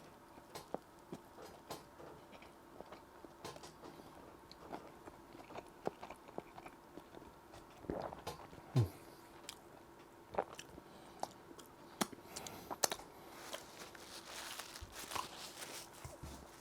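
Close-miked chewing of a Big Mac-style burger with chicken and fish patties: wet clicks and crackles of bread, sauce and patties being bitten and chewed, with denser crackling near the end.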